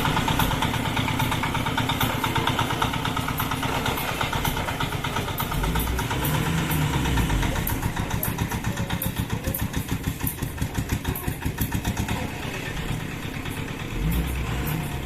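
Road vehicle engines idling and running, with an even, rapid engine pulse throughout. Deeper rumbles come in about six seconds in and again near the end, as heavier vehicles pull or rev.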